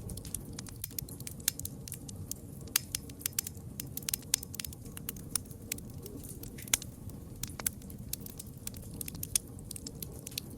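Wood fire burning, with many sharp irregular crackles and pops over a steady low rumble of flames.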